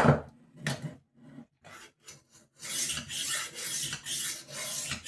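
Rolling knife sharpener's abrasive disc rasping along a kitchen knife's edge as it is rolled back and forth, about two strokes a second. The steady strokes begin a little under three seconds in, after a few scattered knocks and short scrapes.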